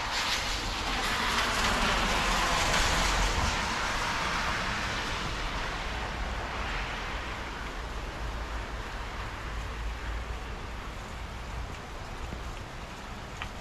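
Thunderstorm: rain falling, with a long roll of thunder that swells over the first few seconds and slowly dies away.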